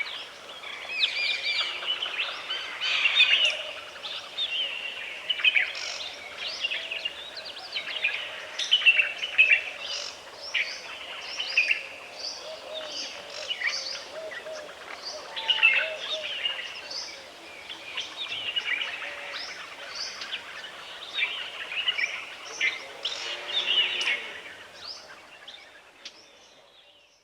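Dry deciduous woodland ambience: many birds chirping and calling in quick, overlapping bursts, with a faint steady drone beneath. It fades out near the end.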